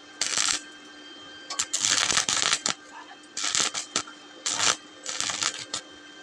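Stick-welding arc crackling in short bursts, struck and broken about six times: the on-off stitch technique for welding thin sheet metal without burning through. A steady low hum runs underneath.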